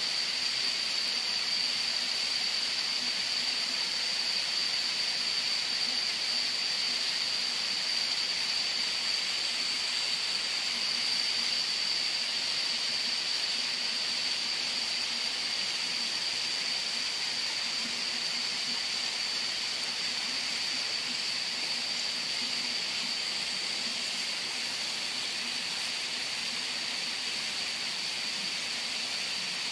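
Waterfall water rushing steadily, with a steady high-pitched whine running through it.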